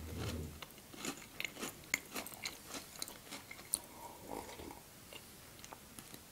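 Close-miked chewing of a crunchy sweet: many small crunches and mouth clicks, soft and irregular, with a sip from a mug about four seconds in.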